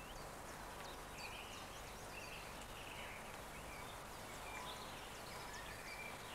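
Faint birdsong, many short chirps and whistles in quick succession, over a steady hiss.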